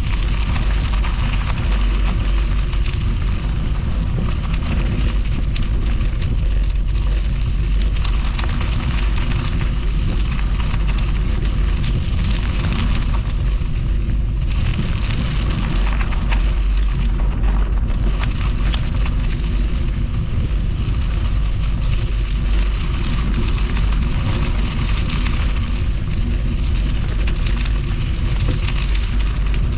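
Steady wind rush buffeting the microphone of a camera riding on a moving bicycle, mixed with the noise of the bike rolling along the path.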